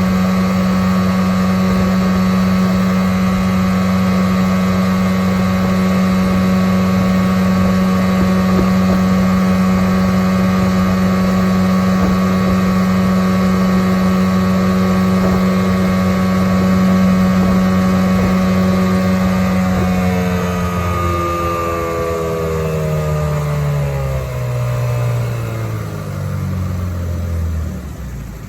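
1993 Johnson 15 hp two-stroke outboard running steadily under load, pushing the boat. On its 12.5-pitch prop it doesn't wind up as much as it would on a 10-pitch. About two-thirds of the way through it is throttled back, and the engine note falls in steps as it slows down.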